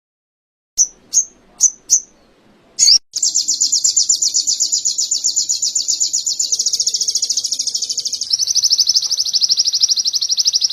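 A small songbird singing canary-style: four short, high chirps, then a long, fast trill of many rapid notes that shifts pitch twice before stopping abruptly.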